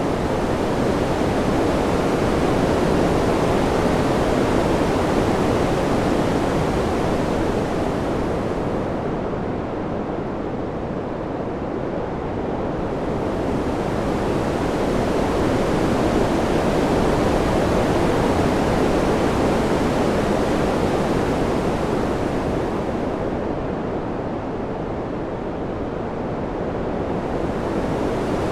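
Steady rushing wind that swells and ebbs slowly, about every fourteen seconds, and turns duller in each lull.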